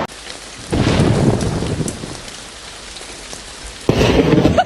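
Thunderstorm: steady heavy rain with thunder rumbling, a louder roll swelling about a second in and fading away, then a sudden louder crack near the end.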